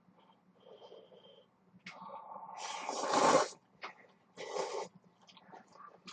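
A person slurping instant ramen noodles: a long slurp that builds to its loudest and cuts off about three and a half seconds in, then a shorter slurp about a second later, with small mouth and utensil clicks between.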